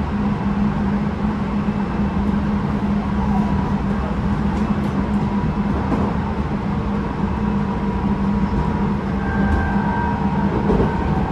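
Running noise of a Tobu 9050 series electric train, heard inside the motor car: a steady rumble with a low hum and faint ticks from the running gear, with the car's air conditioning running.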